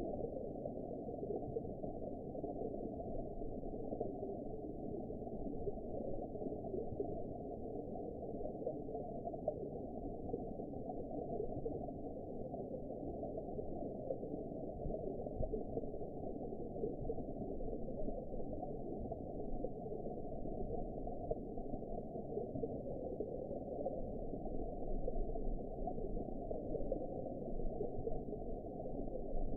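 Continuous muffled underwater ambience: a steady, dull rumble with nothing above the low and middle range, as heard through water.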